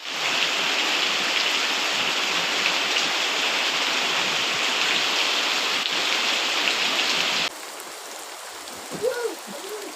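Heavy rain falling as a dense, steady hiss, which cuts off abruptly about seven and a half seconds in to quieter rain, with two short calls near the end.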